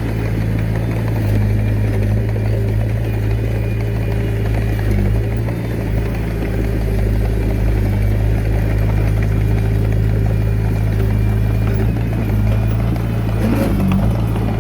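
Heavy diesel engine of earthmoving machinery running steadily at an even speed, a constant low drone, with a few brief knocks near the end.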